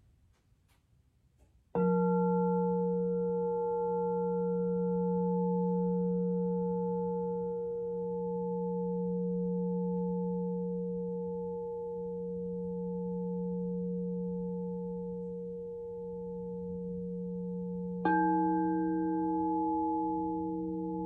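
Alchemical crystal singing bowls: one is struck about two seconds in and rings on with a slow, regular wavering pulse. Near the end a second bowl of a different pitch is struck and rings together with the first.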